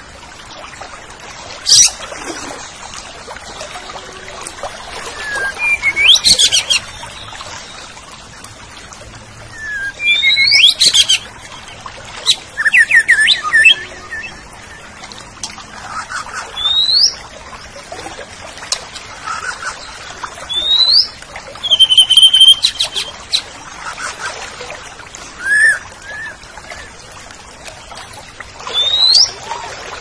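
Green leafbird (cucak ijo) singing: separate bursts of quick, rising whistled notes and chirps every few seconds, loud against a faint background hiss.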